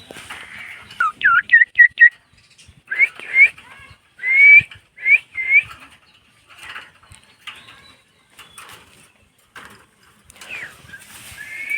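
Pet myna making short, clear rising whistles, several in quick succession about a second in, another group around three to six seconds in, and more near the end.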